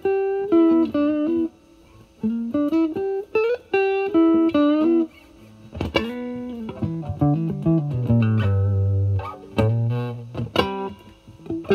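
Fender Stratocaster electric guitar played through a Vertex Steel String Clean Drive overdrive pedal, gain knob at 12, into a Marshall Valvestate amp's clean channel: bluesy single-note lead phrases with some bent notes, moving down to lower notes near the end, with short pauses between phrases.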